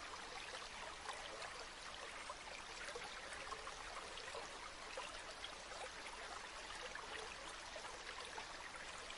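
River water flowing steadily, with many small trickling splashes.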